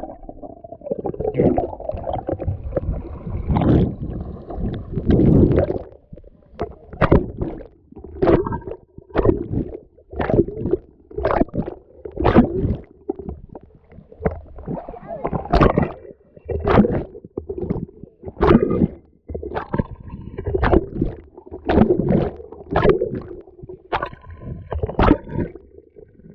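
Water sloshing and splashing right at the microphone, in repeated surges of roughly one a second over a low gurgling rumble.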